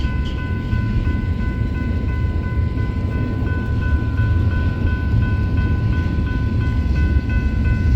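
A train rumbling low and steady, with a high ringing tone over it that breaks into an even pulsing about three seconds in.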